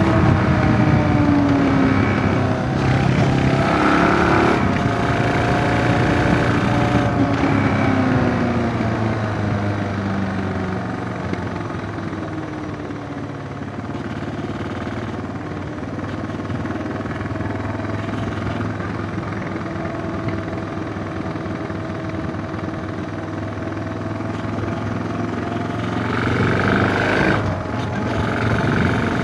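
Suzuki DR650's single-cylinder four-stroke engine under way, its note rising and falling with the throttle. It eases off and drops through the middle, runs lower and steadier for a while, then picks up again near the end.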